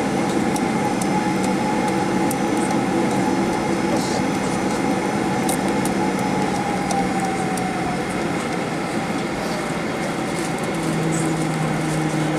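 Steady cabin noise of a Boeing 737-800 on the ground after landing: an even rumble and hiss with a few steady hum tones, one of which sinks slightly in pitch about seven seconds in.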